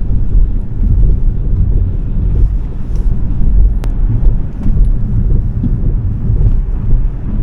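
Low road and tyre rumble from a Smart #3 electric crossover being driven hard, with no engine note, only noise. A single sharp tick is heard about four seconds in.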